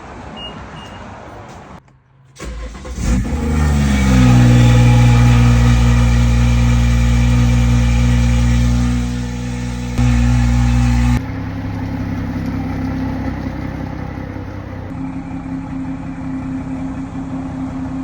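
2018 BMW 340i's B58 turbocharged 3.0-litre inline-six, on a 5-inch downpipe with the M Performance Power and Sound Kit exhaust and tune, cold-starting. About two seconds in it cranks and catches, the revs rise into a loud high idle, and about eleven seconds in it drops to a quieter, steady idle.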